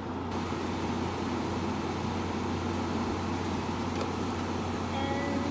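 Frigidaire 5000 BTU window air conditioner running on low fan: a steady rush of air with a constant low hum from the fan motor.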